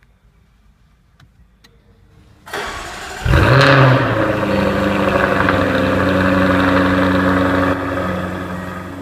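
2015 Jaguar F-Type R's supercharged 5.0-litre V8 being started: a few faint clicks, then the starter cranks and the engine catches about three seconds in with a loud flare, settling into a steady fast idle that drops a little near the end.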